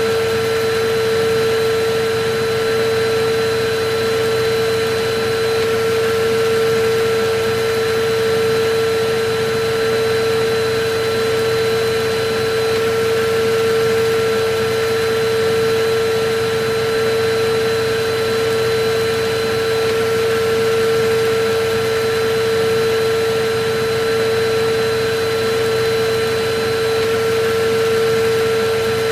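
Electric vacuum cleaner running steadily: an even rush of air with a constant motor hum and a fainter, higher whine, unchanging throughout.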